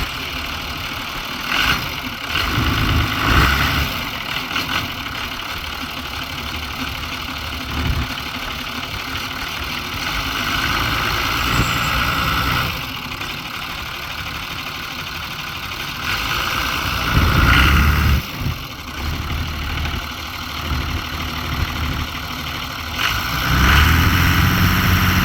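John Deere 2955 tractor's six-cylinder diesel engine running just after a cold start, at a steady idle broken by a few louder swells: one a couple of seconds in, one past the middle, and one near the end.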